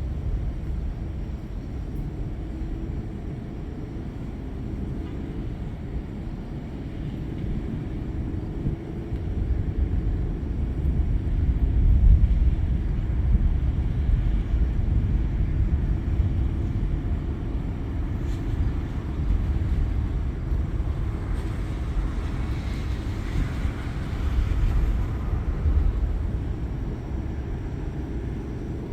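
Rolling thunder: a long, deep rumble that builds about ten seconds in, peaks, and swells again near the end.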